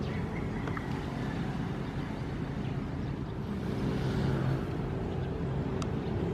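Ocean waves: a steady low rumble of surf, with a wave washing in about four seconds in.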